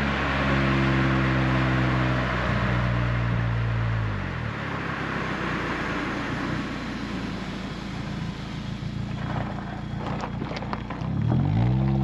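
Renault Twingo RS Gordini's four-cylinder engine through an Inoxcar 80 mm stainless steel exhaust while driving. The steady exhaust note falls in pitch about four seconds in as the engine slows, leaving mostly road and wind noise. Near the end the engine briefly rises and falls in pitch, with a few sharp clicks or crackles.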